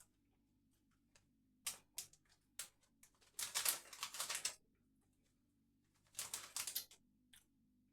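Potato crisps being crunched in the mouth while chewing, in three bouts of crackly crunching, the loudest about three and a half to four and a half seconds in.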